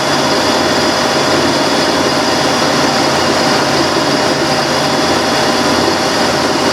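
Mini milling machine running steadily, its cutter taking a light facing cut across the top of a band-iron bar to flatten it: an even machine noise with a constant high whine.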